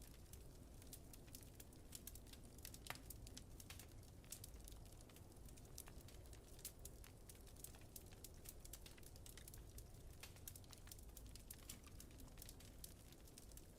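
Wood fire crackling softly in a fireplace: a quick irregular run of small pops and ticks, with one stronger pop about three seconds in, over a faint steady low rumble.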